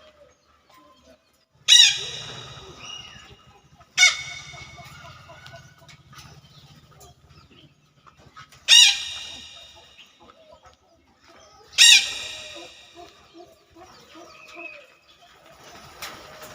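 Rooster crowing four times, each loud call starting suddenly and trailing off over about a second and a half, with softer bird calls in between.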